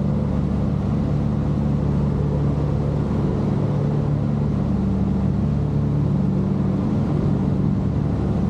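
Steady, even drone of an aircraft's piston engines running at a constant setting, heard as a low pitched hum that neither rises nor falls.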